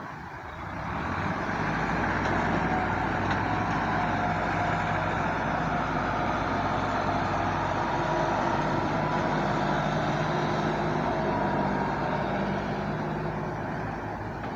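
A farm tractor's diesel engine running steadily, growing louder about a second in and then holding an even note.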